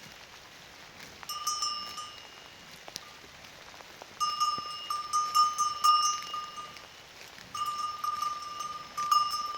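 A cow's neck bell clanking in three bursts of quick, irregular strikes, each ringing at the same bell pitch, as the cow moves its head.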